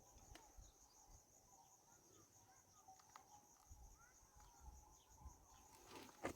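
Near silence: faint insects chirring in a steady, finely pulsing high band, with a few faint short chirps now and then.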